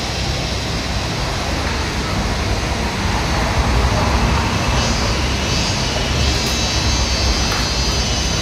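Steady road traffic noise: a continuous low rumble of passing vehicles that swells slightly from about three seconds in.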